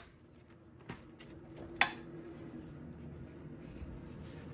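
Quiet handling noises of metal parts, with a single sharp metallic clink that rings briefly just under two seconds in.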